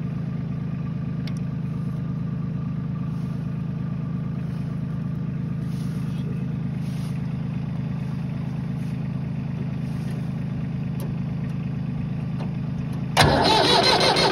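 Tractor diesel engine droning steadily, then a sudden much louder, harsher burst of engine noise about thirteen seconds in.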